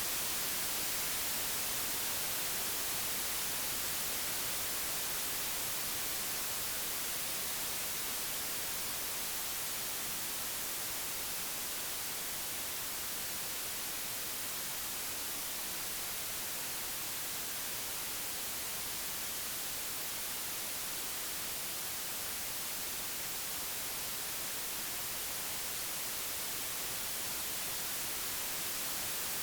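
Synthesized white noise: a steady, even hiss, brightest in the treble, with a slight, slow dip in loudness toward the middle before it rises again near the end.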